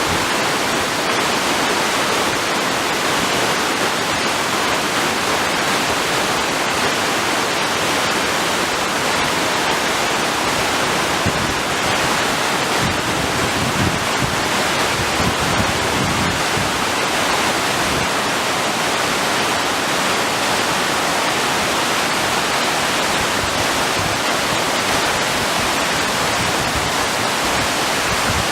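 Broad waterfall sliding down a sloping rock face, its water rushing in a steady, even roar.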